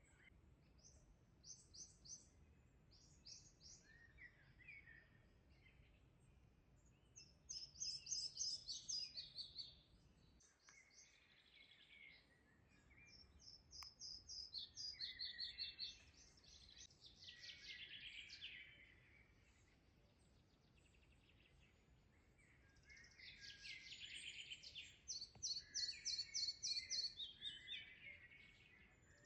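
Songbirds singing in bouts of fast, high trills and chirps with short pauses between phrases, over a faint low background hum that fades about ten seconds in.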